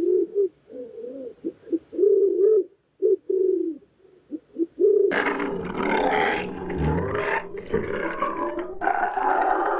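Animal calls: a run of short pitched calls broken by pauses, then, about five seconds in, a louder, rougher and continuous calling.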